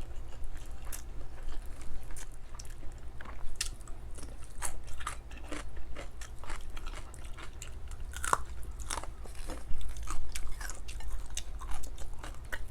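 Close-miked mukbang eating: chewing and biting daing na bangus (fried dried milkfish) with rice, with irregular crisp crunches and wet mouth clicks.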